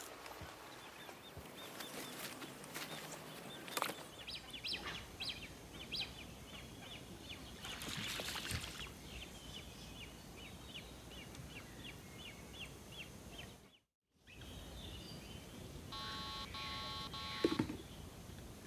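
Open-air background hiss with a bird calling a quick series of short, repeated chirps. Near the end comes a short run of electronic beeps.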